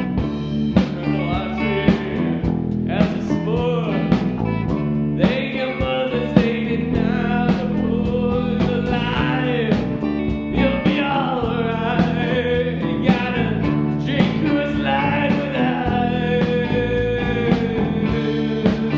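A three-piece rock band plays a blues-tinged song: drums keep a steady beat under bass and guitar. A wavering, bending lead melody runs on top.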